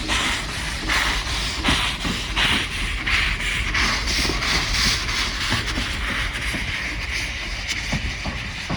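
Steam locomotive Mount Lyell No. 3 working slowly: a hiss of steam with exhaust chuffs about one a second, running together into a steadier hiss after a few seconds.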